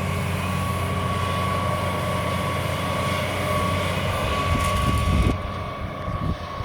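Excavator's diesel engine running steadily, with a thin, steady high whine over it. About five seconds in the sound drops and gives way to uneven low rumbles and knocks.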